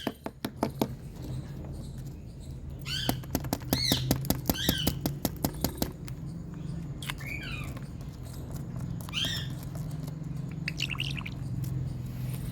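Indian ringneck parakeet giving short chirping calls, several in quick succession and then spaced a couple of seconds apart, amid runs of rapid sharp clicks. A low steady hum runs underneath.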